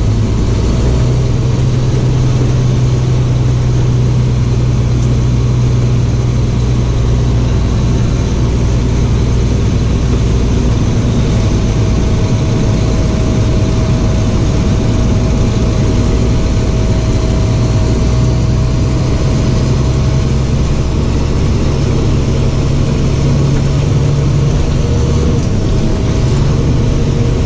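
Box truck's bare cab and chassis, with the box removed, driving along: the engine runs with a steady low drone under constant road noise.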